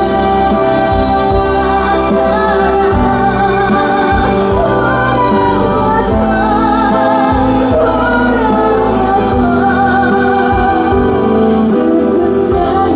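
A woman singing a slow trot song with strong vibrato over a full band accompaniment, amplified through a stage sound system.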